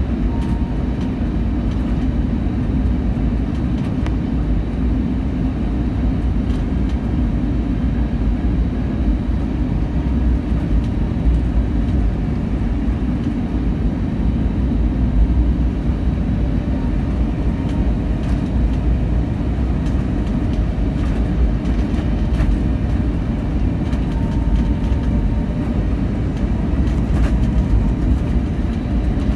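Strong gusty wind buffeting a vehicle cab, heard from inside as a loud, steady low rumble.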